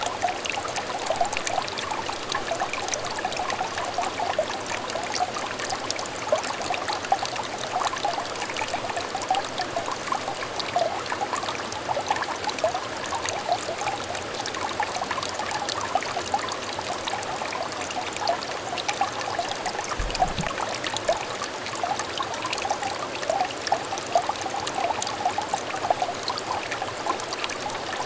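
Small stream trickling and babbling steadily, a dense patter of little bubbling splashes.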